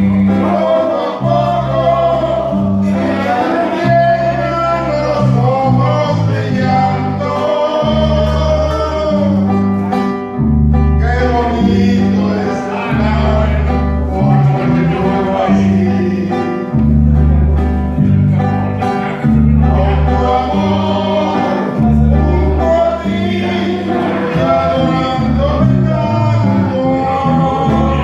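A song played by a band: a singing voice over guitar and a bass line that changes note about every second.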